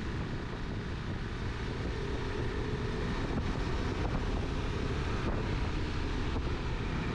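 Motorcycle running at a steady pace on the road, with wind rushing steadily over the microphone.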